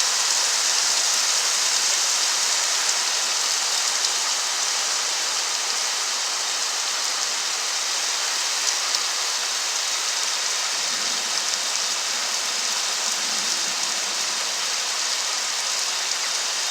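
Heavy rain of a thunderstorm, falling steadily as an even hiss with no letup.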